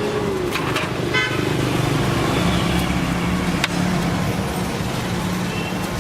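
Street traffic: a motor vehicle engine running steadily, with a short horn toot about a second in and a few sharp clicks.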